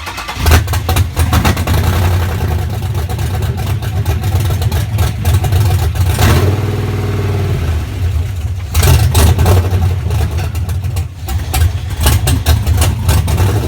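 A 6.0-litre LQ9 V8, just swapped into the truck, catches at its first startup and runs loud, its level swelling and dropping several times, the engine computer still adapting to the new engine.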